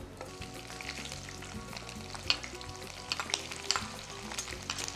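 Bitter gourd (karela) rings, salted and squeezed, sizzling as they deep-fry in hot oil in a wok, just added to the oil: a steady hiss with irregular sharp crackles.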